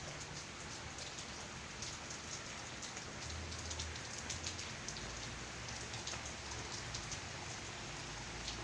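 Rain falling, with many separate drops tapping close by over a steady patter.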